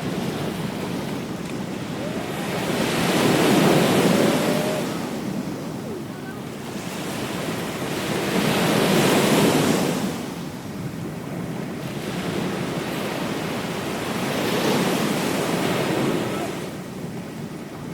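Ocean waves breaking on a beach: the surf swells and washes back in three surges about five seconds apart.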